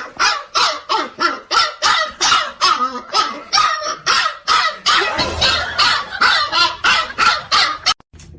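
A dog barking over and over in a fast, even rhythm of about three barks a second, which cuts off suddenly near the end.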